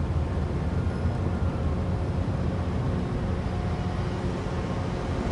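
Caltrain gallery-car commuter train moving through the station, a steady low rumble of the train running on the track.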